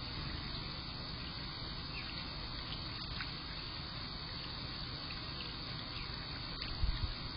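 Steady outdoor hiss picked up by a Blink camera's microphone, with scattered faint, short bird chips and a few low thumps near the end.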